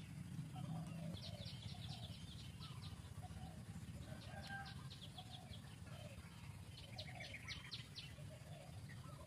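Birds calling: three quick runs of rapid, high chattering notes, over softer calls repeating about once a second and a steady low rumble.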